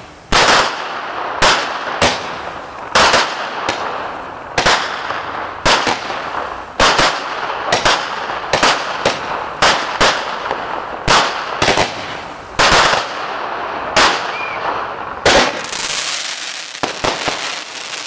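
Consumer fireworks going off: a string of sharp bangs, mostly about a second apart, with crackling between them, fading to quieter crackling near the end.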